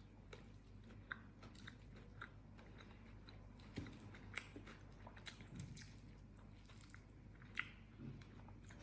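Faint close-up eating sounds: chewing and crunching on mouthfuls of chicken, leafy greens and mixed vegetables, with scattered short crunches, a few of them sharper than the rest.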